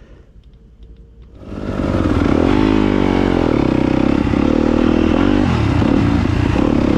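2022 Yamaha YZ250FX dirt bike's single-cylinder four-stroke engine running while riding, its pitch rising and falling with the throttle. It comes in about a second and a half in, after a quiet start with a few faint clicks.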